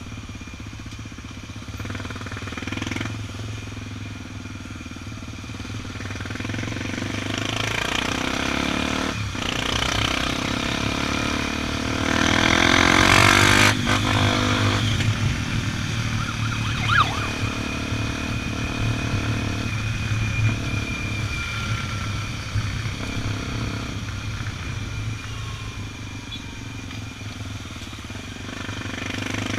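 Honda XR 250 Tornado's single-cylinder four-stroke engine running steadily at road speed. A louder rush of noise rises about twelve seconds in and lasts a couple of seconds.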